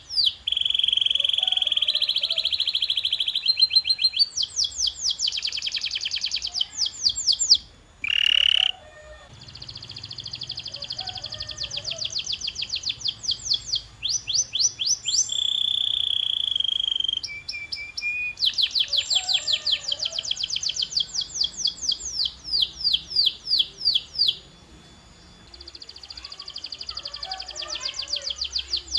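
Canary singing a long song: phrases of fast repeated notes alternating with held high tones, each phrase a few seconds long, with short breaks about eight seconds in and near the end.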